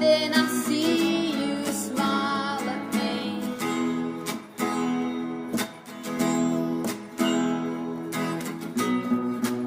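Acoustic guitar strumming chords in a song, with steady repeated strokes.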